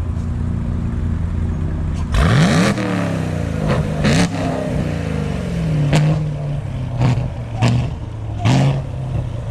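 Camaro's 4.8-litre V8 with headers and intake being revved. It idles, then gets one big rev about two seconds in, followed by about six shorter throttle blips that each drop back to idle.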